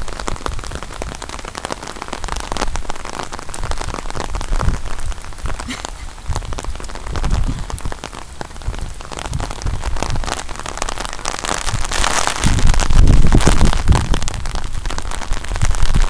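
Steady rain falling on the ground, full of small drop clicks, with a louder low rumble from about twelve to fourteen seconds in.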